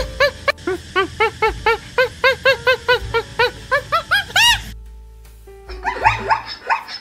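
A small dog yapping in a rapid run of short high barks, about four or five a second. The run breaks off for about a second, then a second burst of yaps starts.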